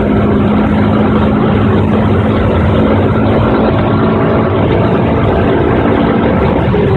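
Toyota 2ZZ-GE 1.8-litre four-cylinder engine's exhaust note, held loud at a steady pitch for about six seconds and then dropping as the revs fall near the end.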